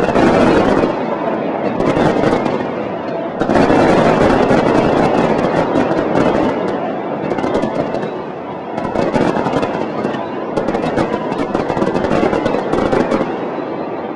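Aerial fireworks exploding in a dense, rapid barrage of bangs and crackles, loudest right at the start and again from about three and a half seconds in, with further swells later on.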